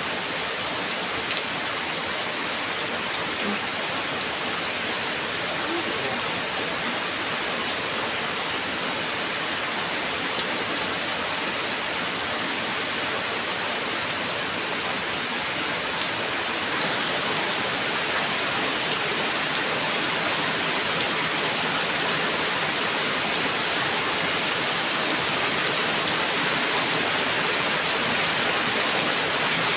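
Heavy rain falling in a steady, dense hiss, with scattered drop ticks, growing slightly louder about halfway through.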